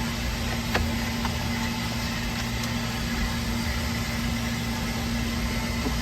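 Steady machine drone: a constant low hum under an even hiss, with a couple of faint clicks about a second in.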